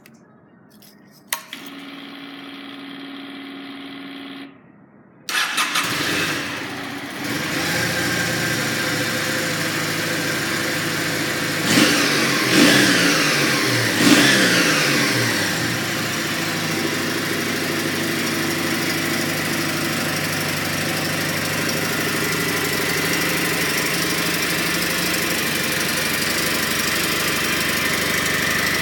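Kawasaki W800 Final Edition's air-cooled parallel-twin engine. A click and a steady hum for about three seconds come first, then the engine is started with the electric starter and settles to an idle. Three quick throttle blips come about halfway through, then it idles steadily.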